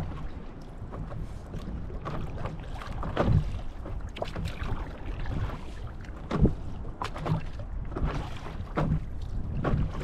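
Lake water splashing and slapping irregularly around a paddle board rocked by boat wakes, over a steady low rumble of wind on the microphone.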